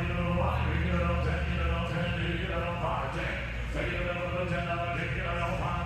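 An auctioneer's bid-calling chant: a fast, sing-song patter on held pitches as he takes bids on a lot.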